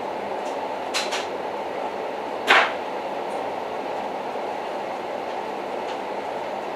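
Old train running on the rails: a steady rumble, with two light clicks about a second in and a louder sharp clack a moment later.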